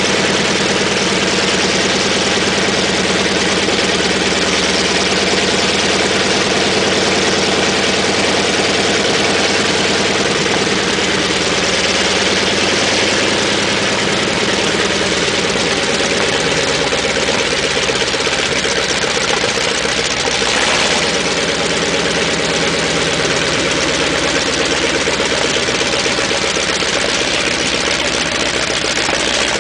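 Sherman tank engine running at a steady idle.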